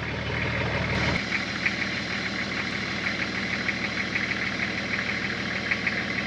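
Nissan Patrol GQ's TD42 diesel engine idling with a knocking tick; its low rumble cuts off abruptly about a second in, leaving a steady hiss with fast, regular ticking.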